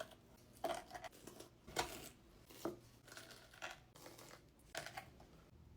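Crinkling and tearing in about five short bursts, roughly a second apart.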